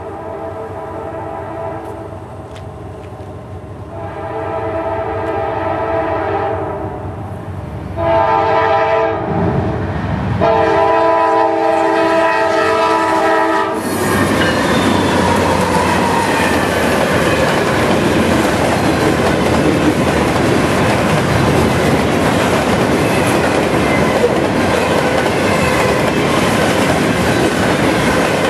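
Diesel freight locomotive horn sounding a chord in several blasts as the train nears a grade crossing, the last blast long. About halfway through, the Norfolk Southern locomotives pass close by with a loud engine rumble, and the freight cars follow, clattering and rumbling over the rails.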